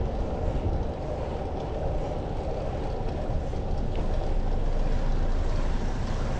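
Steady wind rush and road rumble on the microphone of a camera riding along on a moving bicycle.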